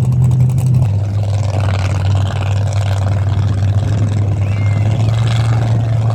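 Off-road competition car's engine running at steady revs; its pitch drops slightly about a second in.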